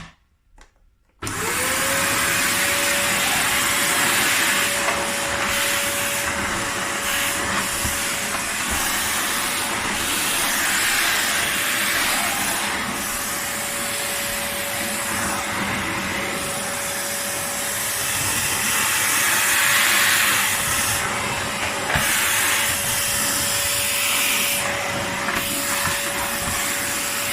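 Vax Pick Up Pet cylinder vacuum cleaner switched on about a second in. Its motor spins up within a fraction of a second to a steady whine over a loud rush of air, and the rush swells and dips a little as it runs.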